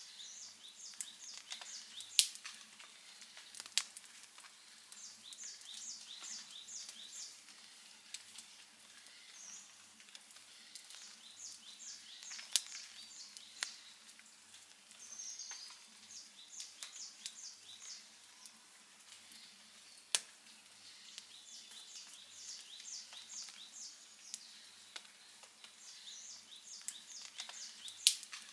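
Outdoor wood campfire crackling, with scattered sharp pops over a faint hiss; the loudest pop comes about two seconds in, another near the end. Behind it, a short run of rapid high chirps repeats every few seconds.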